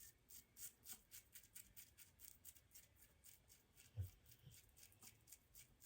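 Faint, quick scratchy strokes against the face, about three a second, from wet shaving. There is a soft low knock about four seconds in.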